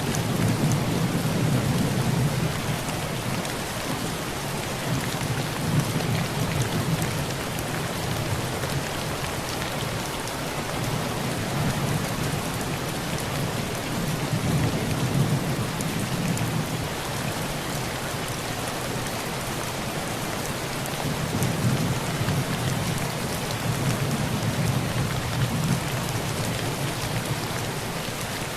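Heavy rain falling steadily on a tin roof, with low rolls of thunder swelling and fading near the start, around the middle and again in the last third.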